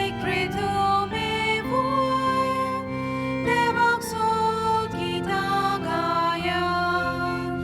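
A church hymn: voices singing a slow melody over sustained keyboard accompaniment, the notes held and changing about once a second.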